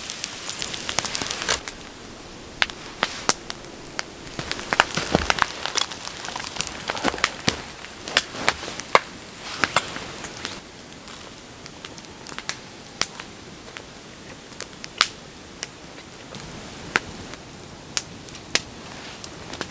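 Wood campfire crackling, with sharp irregular pops and snaps over a steady hiss that drops away about halfway through.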